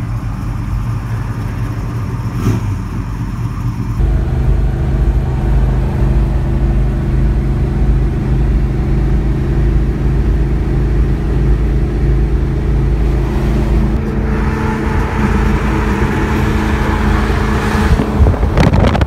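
A car engine running steadily at idle; it gets louder and fuller about four seconds in, and a rougher hiss joins it for the last few seconds.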